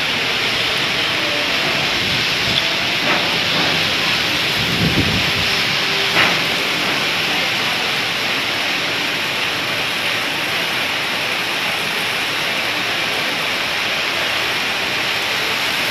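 Heavy rain pouring onto a flat concrete rooftop: a steady, dense hiss of drops. A brief low rumble comes about five seconds in, and a few sharp taps stand out around three and six seconds.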